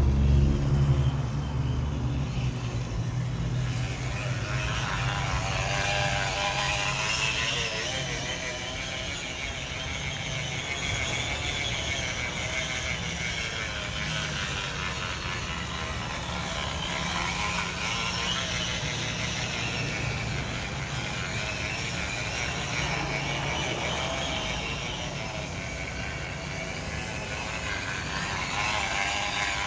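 Plastic water bottle held against a bicycle wheel's spokes, buzzing and rattling like a small motorcycle engine as the wheel turns, its pitch wavering up and down with riding speed. A low hum dies away in the first couple of seconds.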